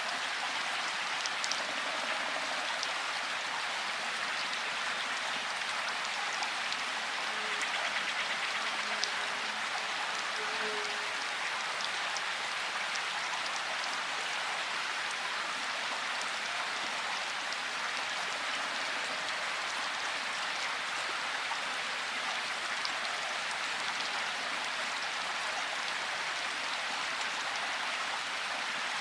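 Steady rainfall, an even hiss of drops with occasional single drops ticking out a little louder.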